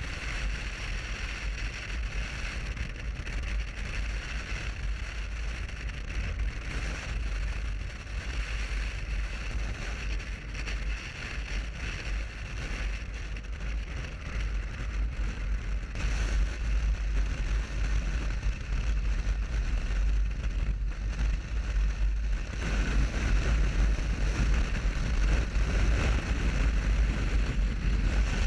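Wind buffeting the microphone over the steady running and road noise of a motorcycle on the move, growing louder near the end.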